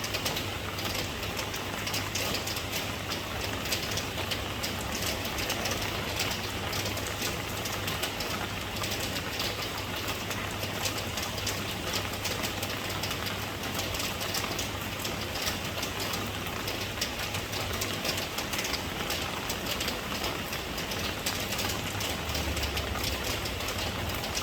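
Steady rain falling: a dense, even patter of drops over a low, steady rumble.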